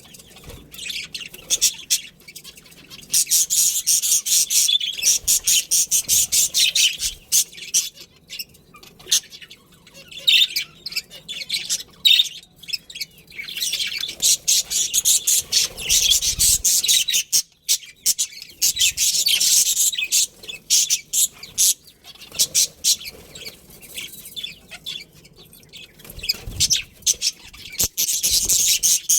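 A colony of budgerigars chirping and chattering, with rapid high-pitched chirps coming in busy bursts of a few seconds each.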